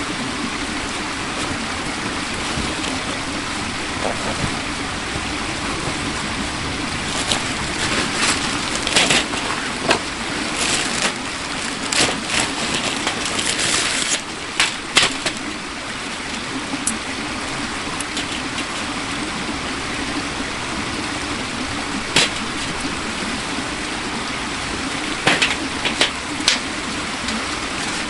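Steady rushing of flowing water, with scattered sharp clicks and short rustles that bunch up around the middle and again near the end.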